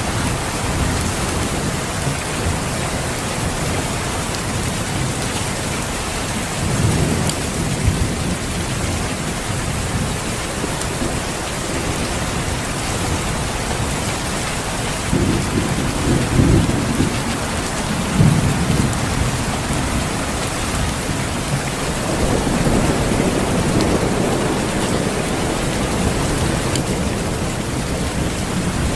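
Steady rain with several low rolls of thunder rumbling under it: one about a quarter of the way in, a couple around the middle, and a longer one a little past the three-quarter mark.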